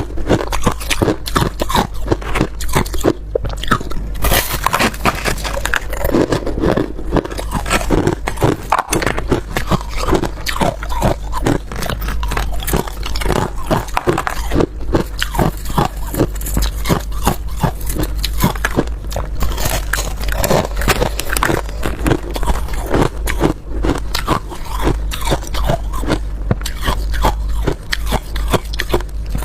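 Ice being bitten and chewed close to the microphone: rapid, continuous crunching.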